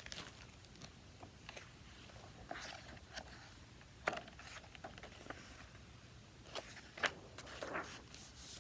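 Faint rustling and a few soft clicks and taps as a picture book is handled and its pages turned.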